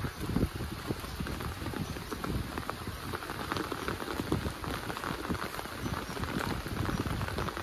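Heavy rain falling steadily, a dense patter of many drops striking surfaces close by.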